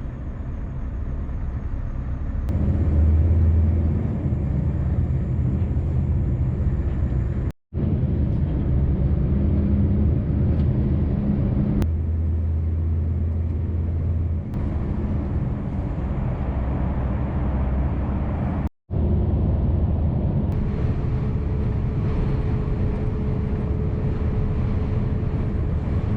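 Scania V8 truck engine running under way, a steady low drone whose pitch and loudness shift a few times. The sound drops out twice, briefly.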